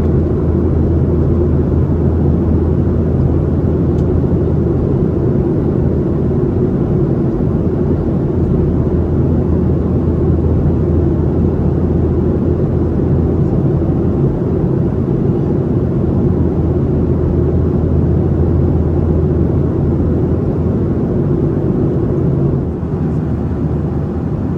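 Steady cabin noise inside a Boeing 737-800 in flight: the drone of its CFM56 turbofan engines and the airflow, with a steady low hum. The level drops slightly near the end.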